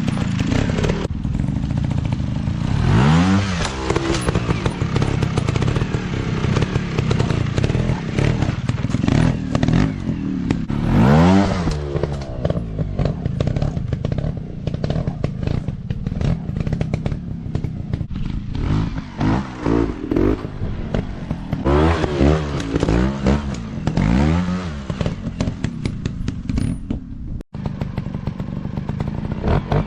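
Dirt bike engines running hard, revving up again and again in rising surges, with clattering and knocks from the bikes over rough ground.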